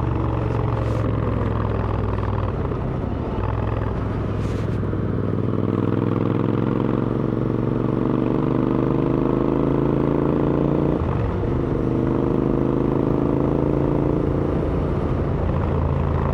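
Royal Enfield Interceptor 650's parallel-twin engine through AEW aftermarket exhausts, running steadily, then pulling with rising pitch from about five seconds in. It breaks briefly for a gear change about eleven seconds in, then rises again.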